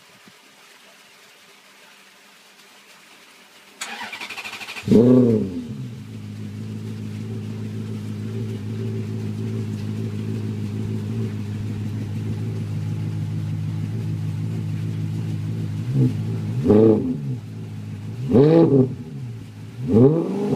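Maserati engine breathing through a custom exhaust: the starter cranks for about a second, the engine catches with a rev flare and settles into a steady idle, then three short throttle blips near the end.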